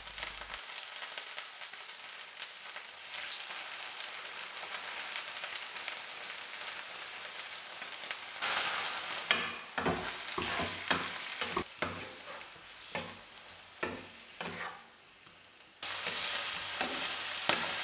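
Liver pieces sizzling in olive oil with garlic in a frying pan over low heat, a steady frying hiss. From about halfway, short knocks and scrapes come as the pieces are turned in the pan. Near the end the sizzle suddenly jumps louder.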